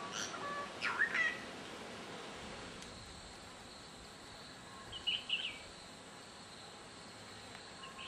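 Wild birds calling: a few short whistled chirps near the start and another brief burst of chirps about five seconds in. From a few seconds in, a faint steady high insect drone sits under them.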